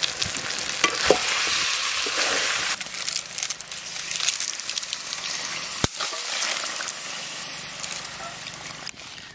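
Pork curry frying in a large karahi, a loud steady sizzle. About three seconds in, water is poured over the meat and the sizzle turns rougher and more broken, with scattered clicks and one sharp click near the middle, fading towards the end.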